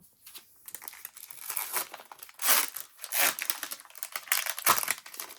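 Foil wrapper of a trading-card booster pack crinkling and tearing as it is handled and ripped open, in irregular rustles with several louder crackles.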